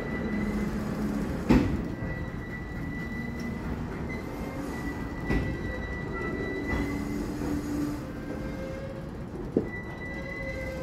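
Freight train of covered hopper cars rolling past at close range, with steady wheel rumble and a thin, steady high-pitched squeal from the wheels. Sharp clanks from the cars sound three times, the loudest about a second and a half in.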